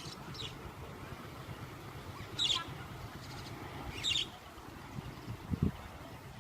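A bird calling in short high chirps, loudest about two and a half and four seconds in, over a low steady background rumble.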